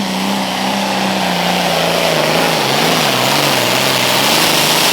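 Limited Pro Stock pulling tractor's diesel engine running at full power while dragging the weight sled, with a loud hiss over it. Its pitch sags and wavers about halfway through as the load builds, then climbs again near the end.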